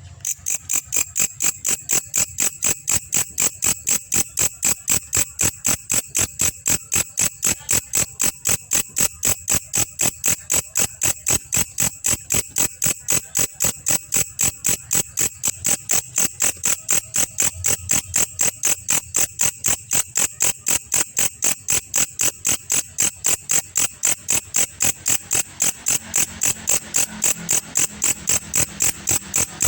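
Belalang kecek grasshopper calling: a steady, even train of sharp, high chirps, about two to three a second, that begins abruptly.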